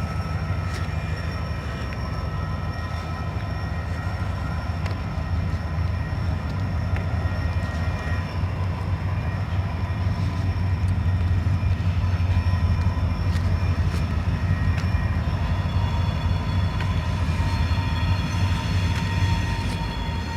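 Diesel-hauled freight train moving on the rails, with a steady low engine rumble and thin, high whining tones that grow stronger near the end. A few faint clicks run through it.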